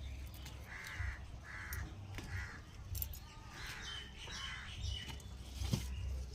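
Crow cawing outdoors, a run of harsh caws about a second in and another run around four seconds in.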